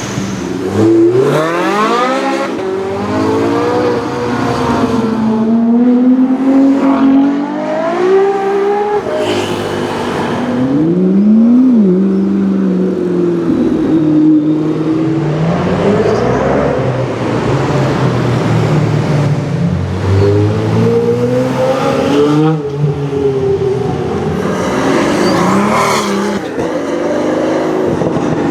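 High-performance car engines revving and accelerating hard, the engine note climbing and dropping repeatedly as they rev and shift up through the gears.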